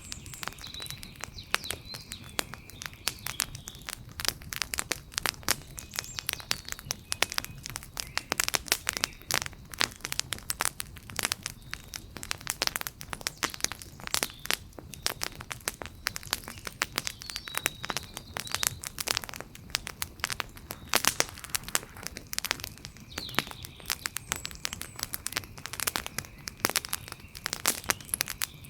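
Campfire crackling steadily, with dense sharp pops and snaps throughout.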